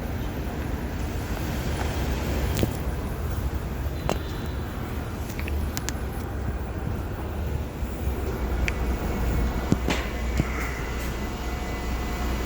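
Steady low background rumble of a city street or train station, with a few faint clicks and knocks scattered through it.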